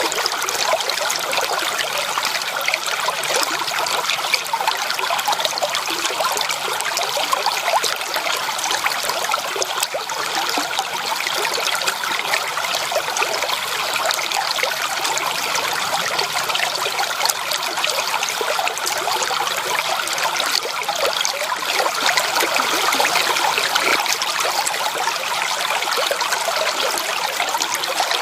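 Stream water running steadily: an even, bright rush with little low rumble.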